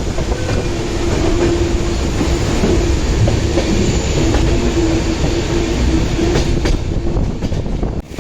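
Moving passenger train: wheels rumbling and clattering over the rails, with a steady tone that comes and goes. The sound dips briefly near the end.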